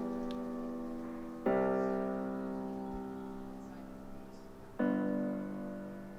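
Soft piano chords, each struck and left to ring and fade: one ringing on at the start, a new one about a second and a half in, and another near the end.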